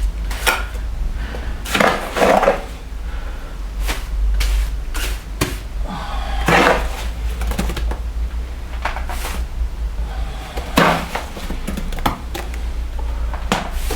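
Irregular scraping and knocking of a trowel working wet sand-concrete mix into the niches of a brick podium, over a steady low hum.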